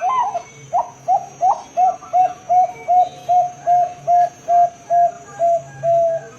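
Perkutut (zebra dove), a Bangkok-bred song bird, cooing a run of about fifteen short notes, evenly spaced at about two and a half a second after a few uneven opening notes. The last note is held a little longer.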